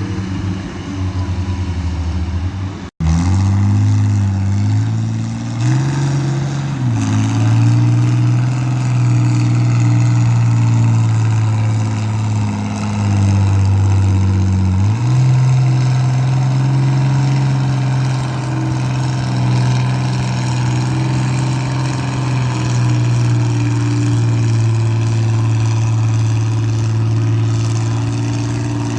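A loud pulling vehicle's engine running hard under load, its steady low drone stepping up in pitch several times. There is a brief break about three seconds in.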